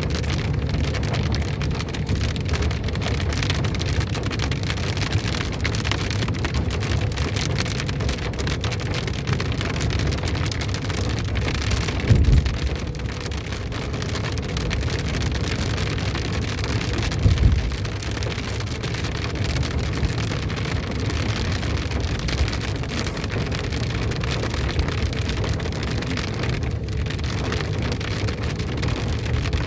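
Heavy rain pouring steadily, an even hiss with a low rumble beneath it. Two short louder thuds come about twelve and seventeen seconds in.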